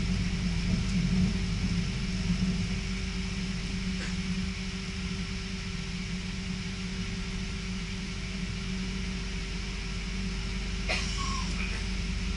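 Steady running rumble of an electric passenger train heard from inside the carriage while it travels at speed, with a constant low hum and a faint click about four seconds in and another near the end.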